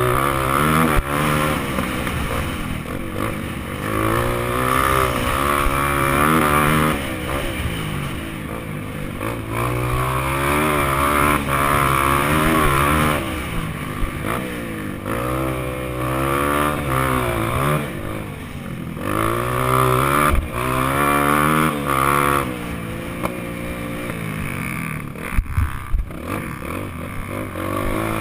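Honda CRF230F dirt bike's single-cylinder four-stroke engine revving up and easing off again and again as it is ridden through the gears around the track. A few sharp knocks come near the end.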